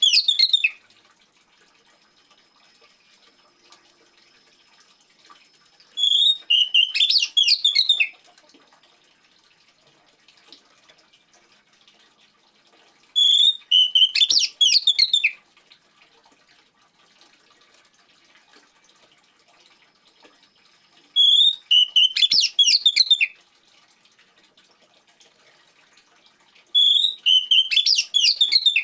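Oriental magpie-robin song: the same rapid, high whistled phrase of about two seconds, repeated roughly every seven seconds. Faint trickling water runs between the phrases.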